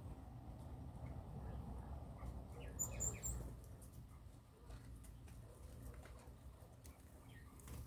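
Faint scratching and rustling of small birds moving about, with a few short, high chirps about three seconds in, over a low steady hum.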